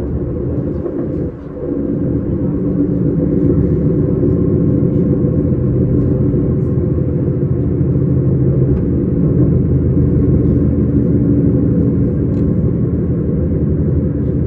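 S-Bahn electric train running, a steady loud rumble with a low hum of steady tones.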